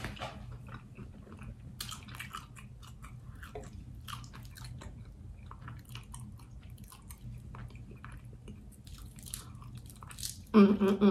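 Close-miked chewing of a fried chicken pot pie egg roll: wet chewing with small crackling crunches, and a denser burst of crunching about two seconds in. A brief voiced sound from the eater near the end.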